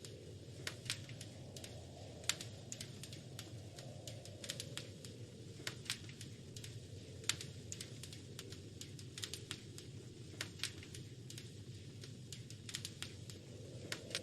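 Wood fire crackling in a fireplace: irregular sharp pops and snaps, a few a second and uneven in loudness, over a low steady rumble.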